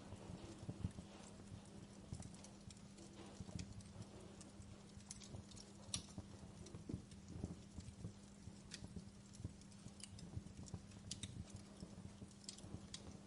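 Fireplace fire crackling: irregular sharp pops and snaps, a few louder than the rest, over a faint steady low hum.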